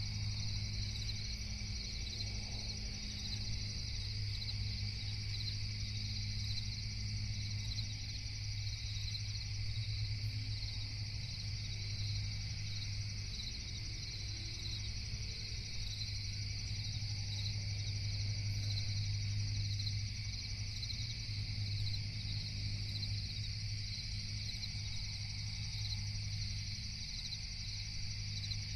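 Continuous night chorus of crickets, a steady high trilling, over a low steady hum.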